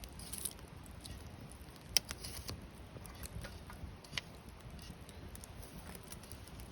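Wood campfire crackling, with scattered sharp pops of burning wood over a low rumble. The loudest pop comes about two seconds in, another about four seconds in.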